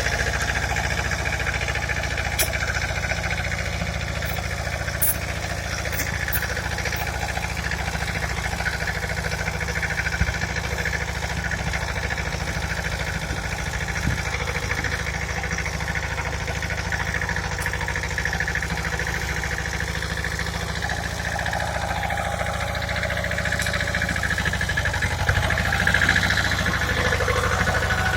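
Pasquali tractor engine running steadily, getting a little louder briefly near the end.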